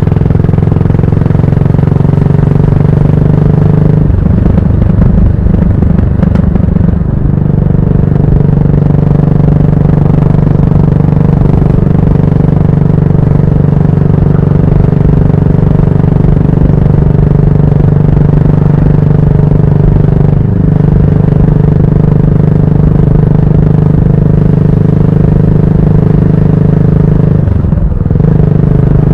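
Yamaha SR400's air-cooled single-cylinder four-stroke engine running under way through a GOODS tapered-cone aftermarket muffler, a loud, steady exhaust note. The note is unsettled about four to seven seconds in and breaks briefly twice near the end.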